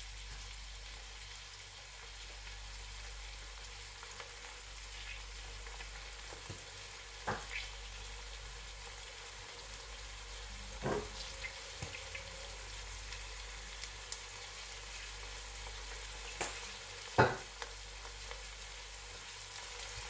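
Diced vegetables and gizzard frying in oil in a stainless steel pot, a steady quiet sizzle. A few sharp taps break through it, the loudest about seventeen seconds in.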